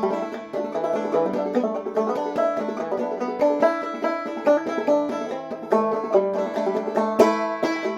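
Banjo played clawhammer style in sawmill tuning with a capo at the second fret: a steady, driving run of picked notes and brushed strums, with one sharp, loud strum about seven seconds in.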